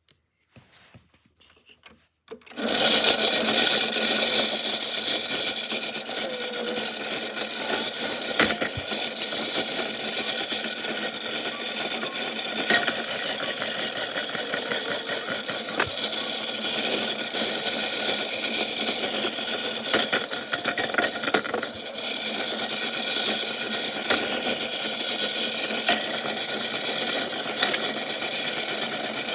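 Washing machine running with a big rock inside: it starts abruptly about two and a half seconds in and then runs with a loud, steady whir, with a few single knocks along the way.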